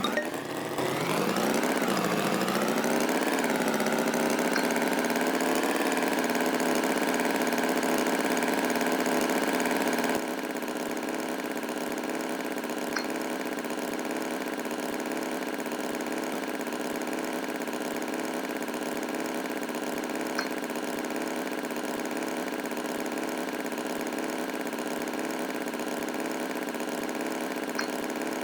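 An engine running steadily at idle, its pitch climbing over the first couple of seconds and then settling. It becomes somewhat quieter about ten seconds in and runs on evenly.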